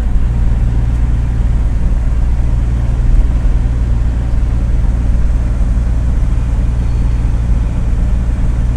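Mini truck's engine running steadily while driving, a constant low drone with road noise.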